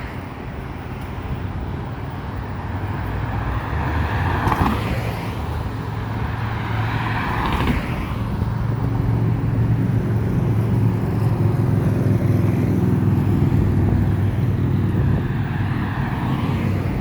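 A motor engine running with a low, steady hum that grows louder from about halfway through, over outdoor background noise.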